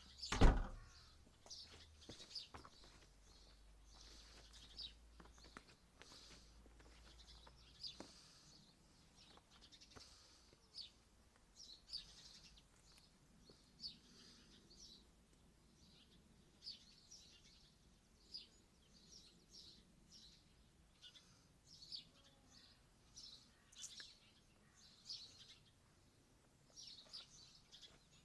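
Small birds chirping over and over in short high calls, with a single sharp thump about half a second in.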